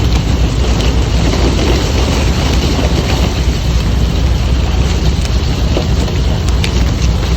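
Icebreaker ship under way: a loud, steady low rumble with an even rushing noise over it and a few faint clicks.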